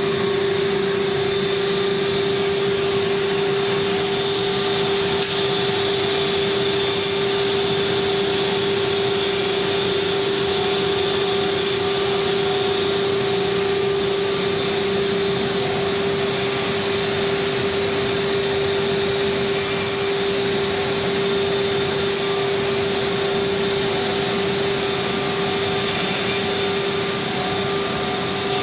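ATC CNC router running steadily: a constant whining tone over an even rushing noise, with no pauses or changes.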